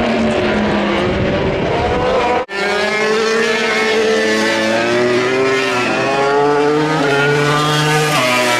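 MotoGP racing motorcycles' engines at high revs, several at once, their pitches rising and falling as they accelerate and shift. The sound drops out for an instant about two and a half seconds in.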